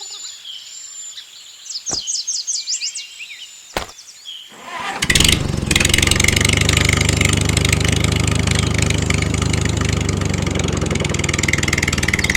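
Small engine starting about five seconds in, then running steadily. Before it starts, birds chirp briefly against a quiet background.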